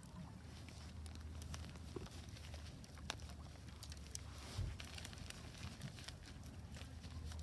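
Wood fire crackling in a Solo Stove Ranger fire pit: irregular small snaps and pops over a steady low rumble, with one louder knock about halfway through.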